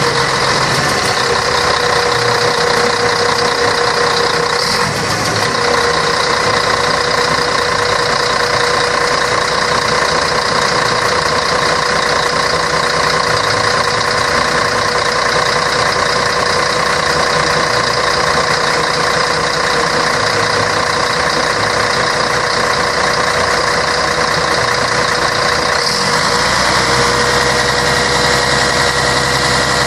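Scania K113 bus's six-cylinder diesel engine running steadily at a constant speed, with a steady whine over the engine note. The note shifts a few seconds before the end.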